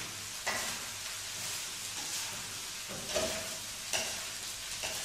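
Rice and vegetables sizzling steadily in a hot wok, with a few short scrapes and knocks of a wooden spatula turning them over.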